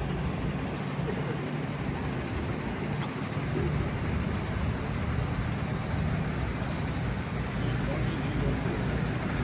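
City street ambience: a steady rumble of passing traffic with indistinct voices of people nearby.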